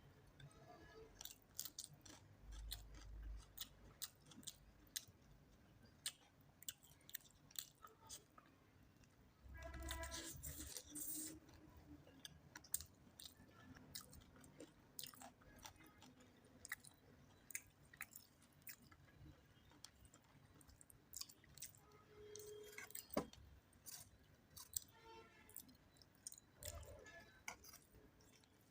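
Close-miked chewing and wet mouth clicks of a person eating rice and spicy chicken curry, with many short smacks and a louder stretch about ten seconds in.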